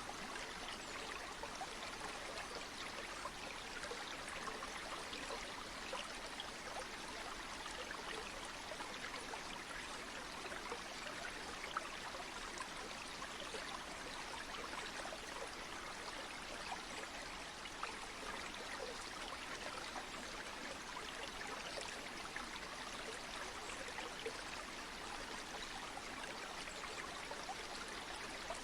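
Steady rushing and splashing of a flowing stream, an even wash of water noise with fine trickling detail and no changes.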